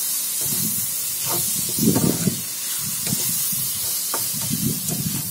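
Sliced onions with ginger-garlic-chilli paste and spices sizzling in hot oil in a kadai. A spatula scrapes and stirs through them in irregular strokes.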